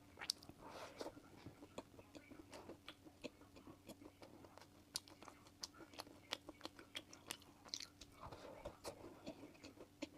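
Close-miked chewing of a five-nut mooncake: many irregular crunches and wet mouth clicks over a faint steady hum.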